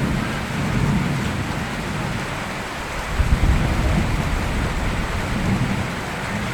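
Steady rainfall with the low rumble of thunder dying away, and a brief louder swell of rumble about three seconds in.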